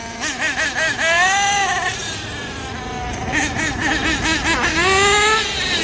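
Electric RC car motor whining, its pitch warbling quickly, gliding down and then climbing again as the throttle is worked.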